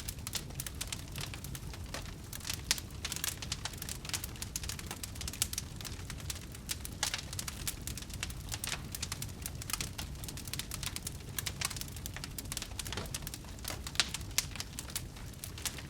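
Wood fire in a fireplace crackling steadily, with frequent sharp pops over a low, even rumble of the flames.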